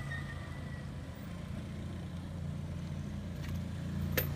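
Heavy truck's diesel engine running with a steady low rumble, with a short sharp click about four seconds in.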